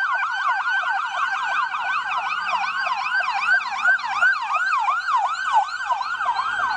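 Toy police car's electronic siren sounding a fast falling yelp, repeating about four to five times a second, with a second out-of-step yelp overlapping in the middle.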